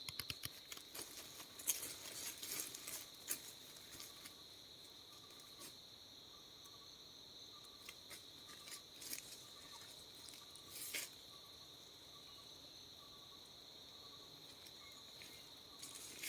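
Steady, faint, high-pitched insect trill, typical of crickets or similar forest insects. Scattered light clicks and rustles come and go, mostly in the first few seconds and again briefly about eleven seconds in.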